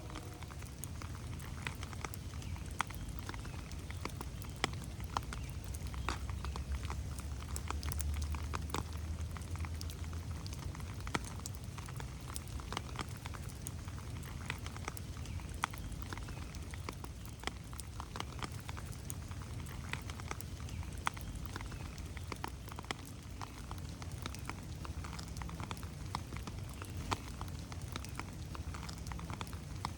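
Steady rain falling in a forest, many separate drops pattering on leaves and the ground over a soft low rumble that swells a little about six to ten seconds in.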